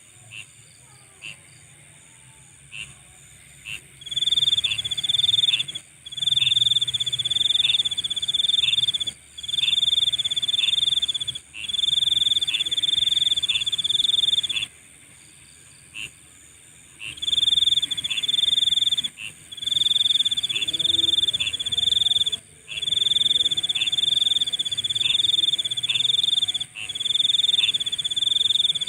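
Nighttime insect chorus: a steady high-pitched trill throughout. From about four seconds in, a louder, lower trill joins in bouts of one to three seconds separated by short gaps. Before that there are only short chirps about twice a second.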